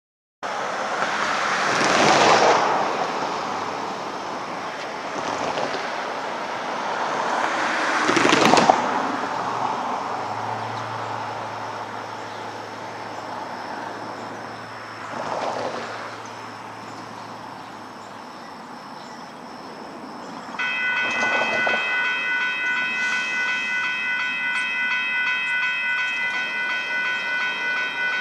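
Union Pacific freight train approaching from a distance, heard trackside under several swells of broad noise. About three-quarters of the way through, a steady chord of several high tones starts abruptly and holds, pulsing slightly.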